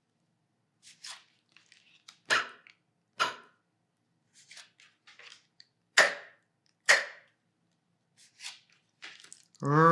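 A voice saying the voiceless phonics sounds for p and q, each twice. Two breathy /p/ puffs come about two and three seconds in, then two sharper /k/ bursts about six and seven seconds in, with faint mouth clicks and breaths between. A voiced letter sound begins right at the end.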